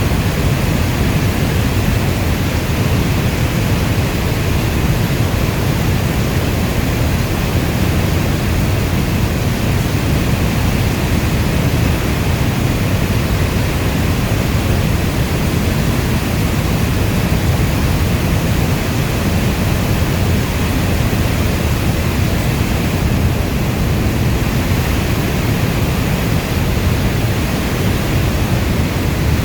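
Steady heavy rain: a dense, even hiss with a deep low rumble underneath, unchanging throughout.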